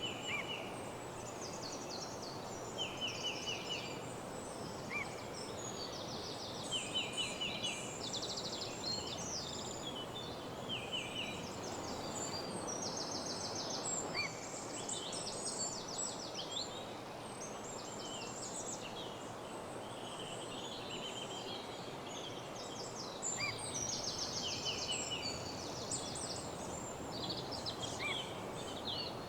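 Woodland morning birdsong: several songbirds singing short, rapid trills that overlap one another, over a steady background hiss.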